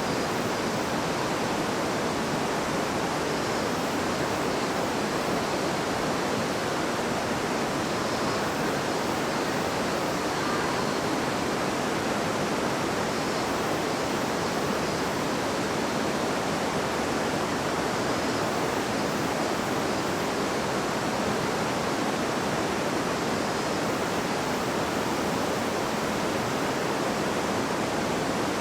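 A river babbling and rushing over stones, a steady, even water noise with no change in level.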